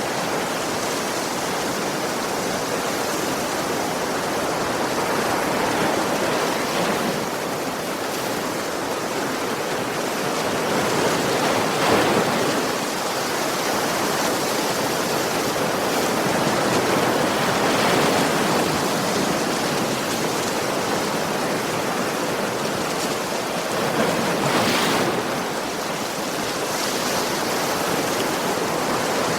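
Ocean surf: a steady wash of waves on the shore, with a wave breaking and swelling louder every six seconds or so.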